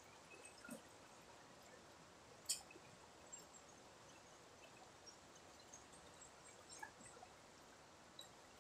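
Faint river water trickling, with scattered small drips and ticks and one sharper click about two and a half seconds in.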